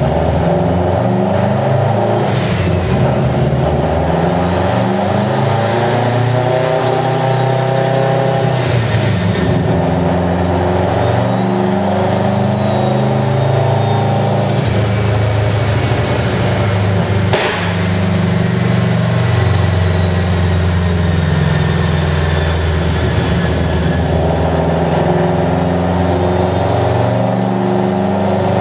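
Turbocharged 2.5-litre flat-four of a 2007 Subaru STi, fitted with a GT35R rotated turbo kit, running on a dyno under load. The engine note rises and falls through the run, with a single sharp crack about two-thirds of the way through.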